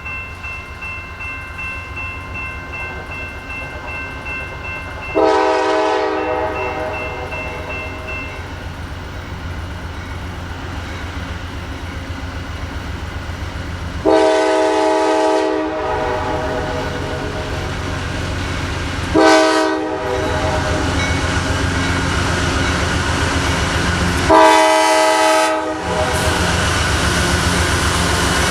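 Norfolk Southern diesel freight locomotive sounding its air horn four times, short and long blasts, over a steady low engine rumble that grows louder as the train approaches.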